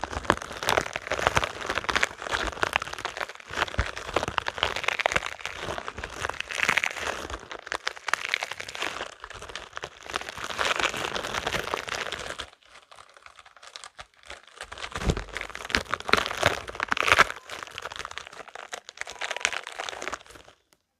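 Spiky rubber balls handled and squeezed close to the microphone: a dense run of small clicks and scratchy rubbing. It drops away for a couple of seconds a little past halfway, picks up again, and stops just before the end.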